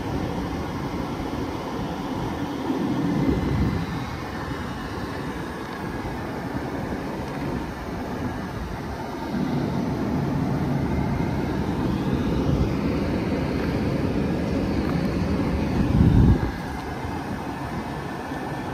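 Trenitalia Rock double-deck electric multiple unit moving past at close range: a steady rolling rumble of wheels on rail that swells as the bogies go by, loudest briefly near the end, with a faint electric whine rising in pitch.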